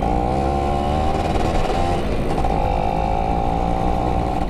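Yamaha F1ZR's 110 cc two-stroke single-cylinder engine running under way. Its note eases down over the first couple of seconds, then holds steady.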